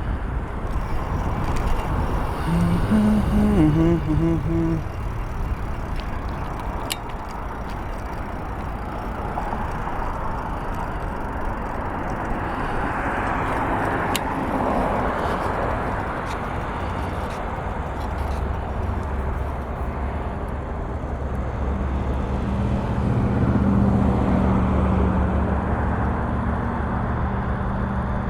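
Road traffic noise of vehicles driving by. A brief pitched sound that steps between a few notes comes a few seconds in. A steady low engine hum builds over the last several seconds.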